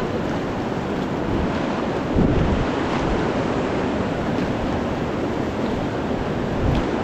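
Whitewater of a Ganges river rapid rushing around a raft in a steady roar, with wind buffeting the microphone.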